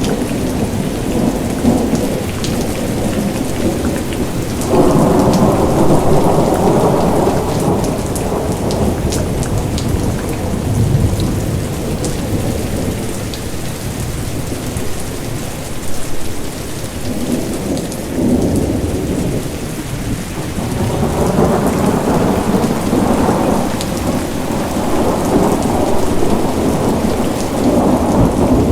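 Steady rain falling, with rolling thunder rumbling under it. The rumble swells about five seconds in and again from about twenty seconds on.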